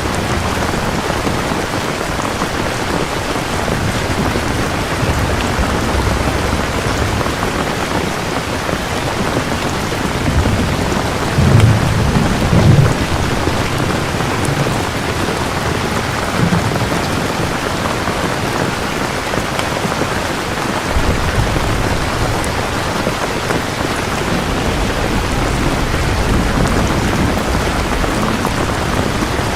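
Steady heavy rain falling, with rolling thunder rumbling low about ten seconds in and swelling loudest a couple of seconds later, and fainter rumbles further on.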